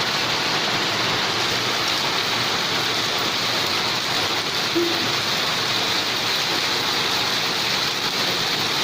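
Steady rain falling, an even, unbroken hiss of drops, with one brief low note about halfway through.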